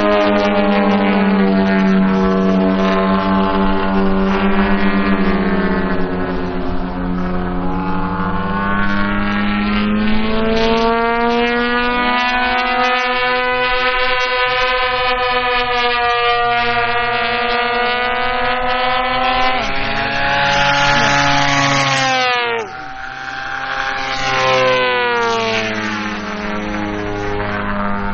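Two large-scale RC Extra 330 SC aerobatic planes flying, their propeller engines rising and falling in pitch as they manoeuvre. About 22 seconds in, one sweeps past close and its pitch drops sharply.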